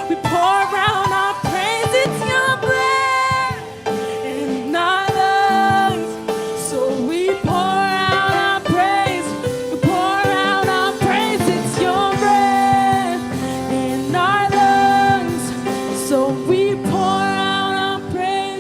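Gospel worship music: a sung vocal line with held, wavering notes over sustained instrumental chords.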